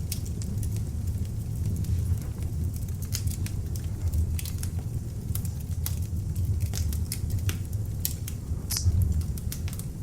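Beech-log fire in an open fireplace: a steady low rumble of flame with scattered sharp crackles and pops. Near the end a louder pop is followed by a brief hiss.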